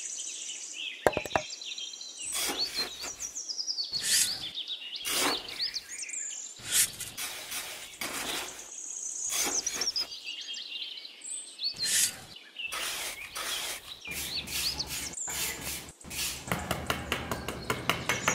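Birds chirping all through, over repeated short scraping strokes of a small metal trowel digging into damp sand, some in quick runs.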